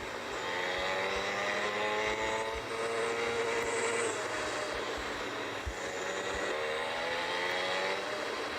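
Motorcycle engine under way, its pitch climbing and dropping back several times as the rider accelerates and shifts gears.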